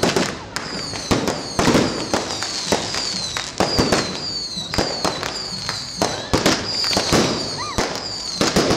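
Fireworks display going off in rapid succession: many sharp bangs, several close together each second, with high falling whistles between them.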